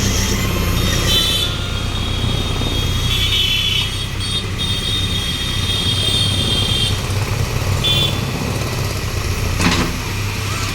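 Engine of a heavy construction machine running steadily, with a high-pitched whine that comes and goes and a sharp knock near the end.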